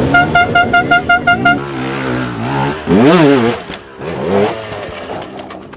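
A horn gives eight short, rapid beeps, while a dirt bike engine runs underneath. About three seconds in the engine revs hard in a quick rise and fall, with a shorter rev a second later.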